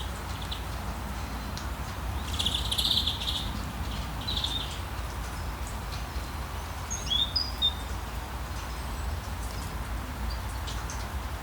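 Steady hiss of rain with a low rumble beneath, and small birds chirping over it in short bursts, loudest about two to three seconds in and again around seven seconds in.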